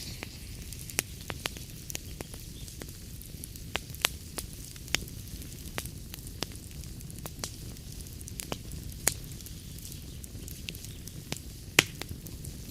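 Wood fire crackling in a fireplace: irregular sharp pops and snaps over a steady low rumble and faint hiss, with one louder pop about a second before the end.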